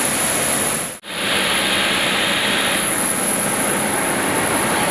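Jet aircraft engine noise, a steady loud rush with a constant high-pitched whine, cut off for a moment about a second in.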